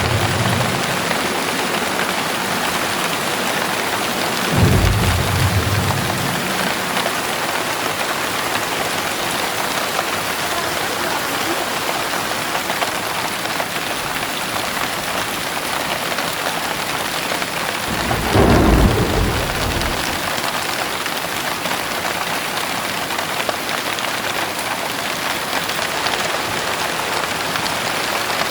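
Heavy rain pouring steadily, with two low rumbles of thunder: a short one about five seconds in and a longer one of about two seconds around eighteen seconds in.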